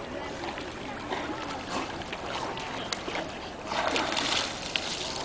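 Water splashing and sloshing as a dog swims and paddles in a pond, with a louder spell of splashing about three and a half seconds in.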